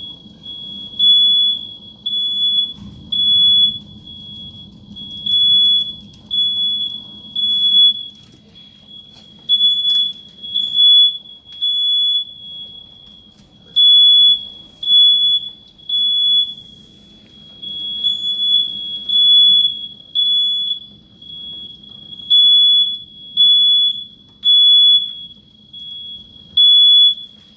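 Shrill electronic alarm beeping on a single high tone, about one to two beeps a second in uneven runs, over a low rumble of wind.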